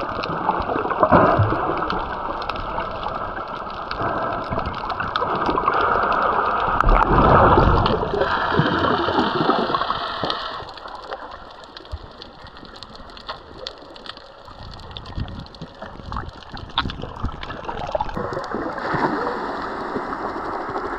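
Water sloshing, gurgling and splashing right around the microphone while snorkelling, louder in the first half and quieter for a stretch past the middle.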